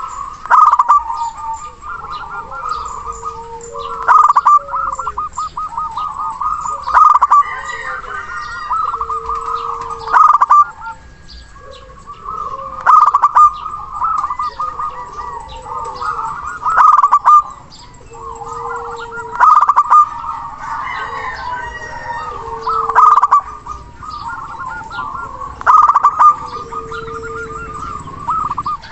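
Zebra dove (perkutut) cooing: rapid trilled coos in repeated phrases about every three seconds, each peaking in a few louder notes.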